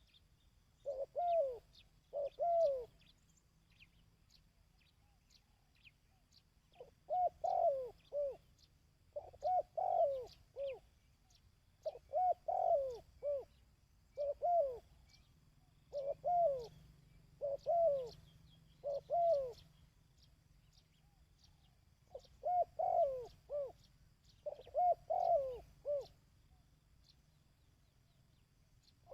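A dove cooing in the 'kích bổi' style: short phrases of two to four falling coos, given in runs of several phrases with pauses of a few seconds between runs.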